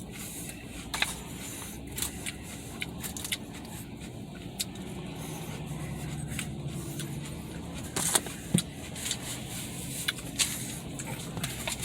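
Scattered clicks and scrapes of utensils working in a takeout food container, over a steady low rumble. The clicks come thicker about eight seconds in.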